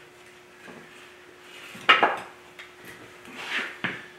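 Metal clanking: two sharp clanks about two seconds apart, with a softer scrape just before the second.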